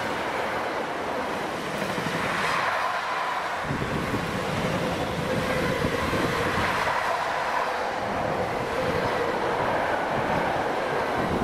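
Freight train passing on the rails: a steady rolling rumble and rail clatter with no let-up.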